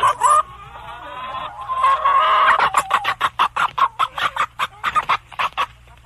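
Chicken sound effect: a drawn-out call, then a quick run of clucks, about four or five a second, that stops shortly before the end.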